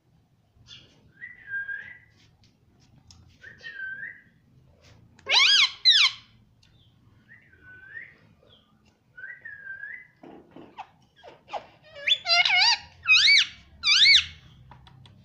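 Ring-necked parakeet whistling and calling: several soft, short whistles, a pair of loud wavering calls about five seconds in, and a run of loud wavering calls near the end.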